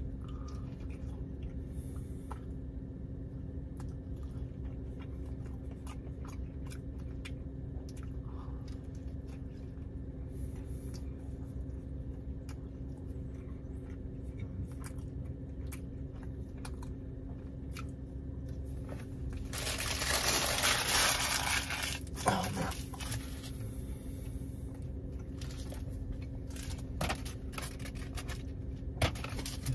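Close-up chewing and mouth sounds of a man eating a breakfast burrito, with soft crunches and clicks over a steady low hum. About twenty seconds in, a louder rustle of the food wrapper lasts roughly three seconds.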